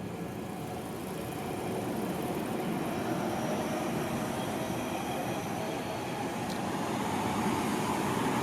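Tobu Tojo Line electric train running past a level crossing, a dense rumble of wheels on rails that grows steadily louder.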